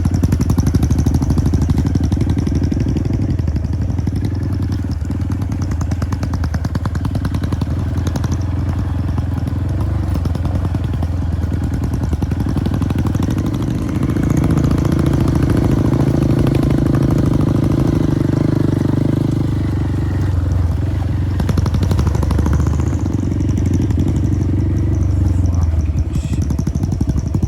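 Motorbike engine running steadily, getting louder about halfway through and easing off again later.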